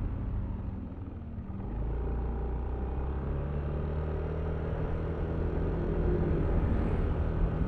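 Yamaha Aerox V3 scooter's 155 cc single-cylinder engine running while riding. It eases off about a second in, picks up again, and grows a little louder near the end.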